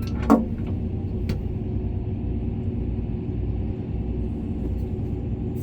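Hitachi 890 excavator's diesel engine running steadily with a low rumble, with a brief knock about a third of a second in.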